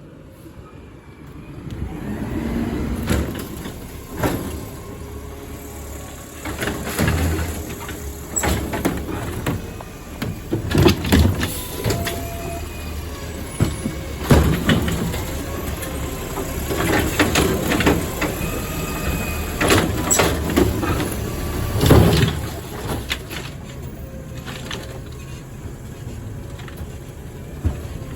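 Garbage truck collecting recycling: its engine runs under load while repeated loud clanks and bangs of the pickup ring out. The truck's noise swells about two seconds in.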